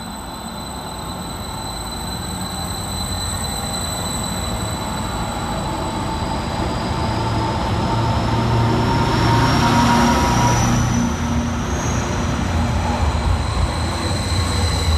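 Class 231 Stadler FLIRT diesel-electric multiple unit getting louder as it passes, its engine rumble joined by a whine that rises steadily in pitch as it picks up speed.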